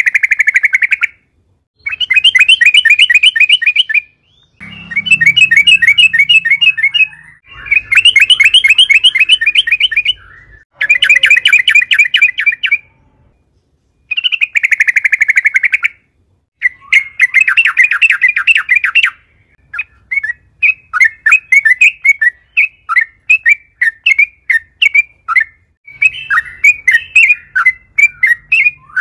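Yellow-vented bulbul singing loudly in repeated bursts of about two seconds of rapid bubbling notes, with short gaps between them. Near the end the song breaks into separate chirps, about two a second.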